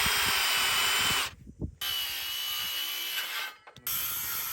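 Power drill running in three bursts, each one to two seconds long, with a steady high whine, while the wooden frame is put together. There is a short knock between the first two bursts.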